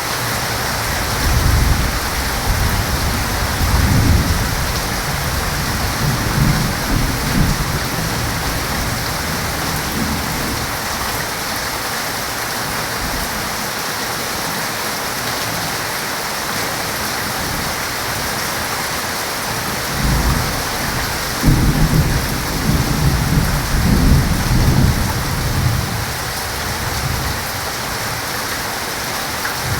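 Heavy, steady rain with two long rolls of low, rumbling thunder. The first starts about a second in and lasts some nine seconds; the second comes about twenty seconds in and lasts some six seconds.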